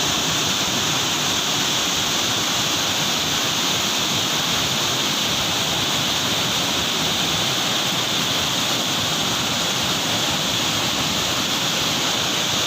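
Rainwater rushing steadily, a loud continuous flow of water after heavy rain.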